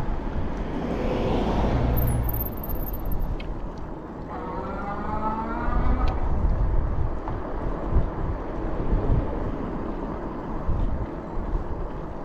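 Road traffic heard from a moving bicycle: steady low road rumble, with a vehicle passing about a second in and a brief whining tone about five seconds in.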